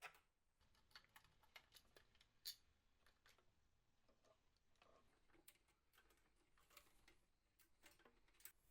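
Near silence with faint, irregular light clicks and taps, the loudest about two and a half seconds in.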